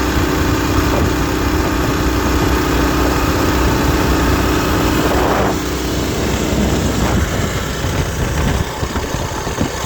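Coleman mini bike's small single-cylinder four-stroke engines running at full throttle in a drag race, a steady drone that breaks off about five and a half seconds in and goes on a little quieter and rougher.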